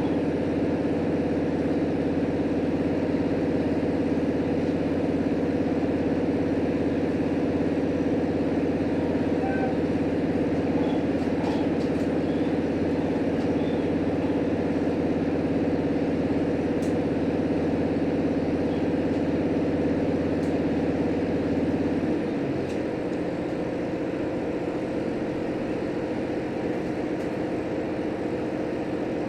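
Onboard running noise of a JR Hokkaido H100 diesel-electric railcar: a steady drone from the diesel engine and the drive. About 22 seconds in, the deep part of the drone drops away and the sound gets a little quieter, as the engine throttles back.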